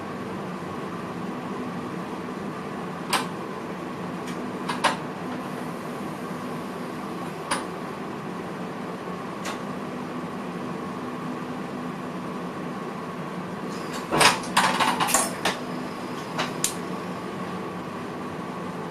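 Steady hum of a VIRM electric train's cab equipment, with a few sharp clicks and knocks, several of them in a quick cluster about fourteen seconds in.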